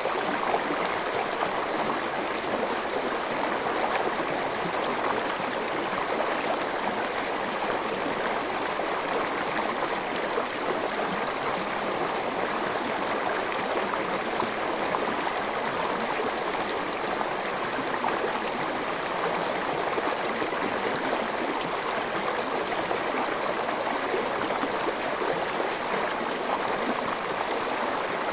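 Forest stream flowing over rocks: a steady, even rush of water with small gurgles.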